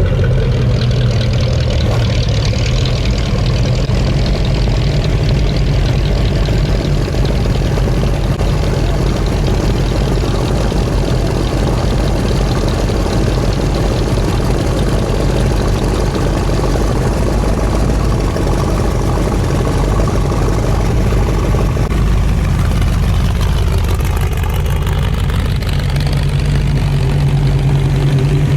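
Car engine running at low speed with a deep, steady rumble. Its note shifts and rises again about three quarters of the way through.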